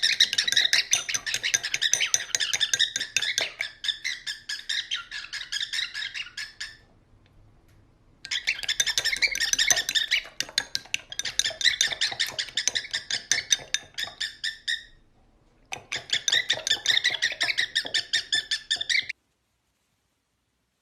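A parrot chattering in a rapid run of high chirps and squawks, in three long bouts separated by short pauses.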